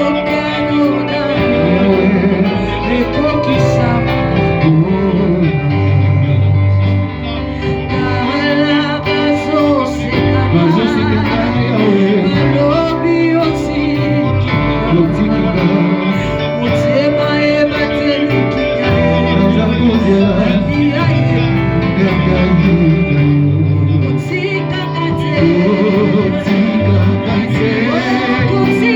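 Church worship music: voices singing over instrumental accompaniment with a steady bass line.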